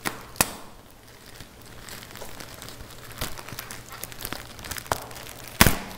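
Plastic packaging crinkling and rustling as a grey poly mailer bag is handled and pulled open, with scattered sharp crackles, one about half a second in and the loudest near the end.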